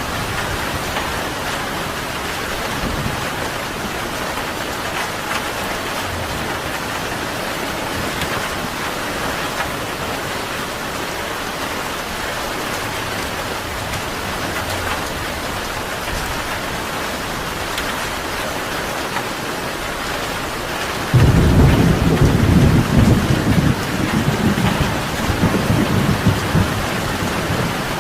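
Steady rain falling. About three quarters of the way through, a loud low rumble of thunder sets in suddenly and rolls on to the end.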